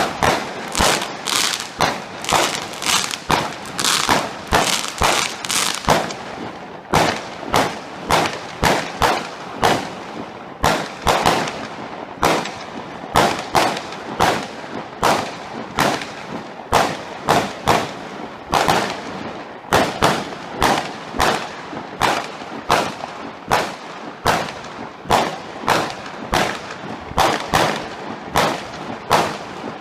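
Fireworks display: a continuous run of loud bangs going off one after another, about one to two a second, with crackling between them.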